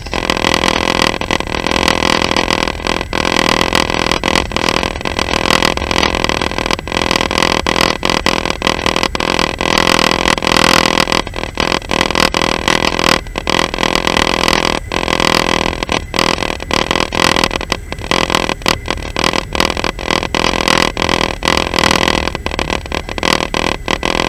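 Steady, loud running noise of a moving train, heard from on board, with no let-up.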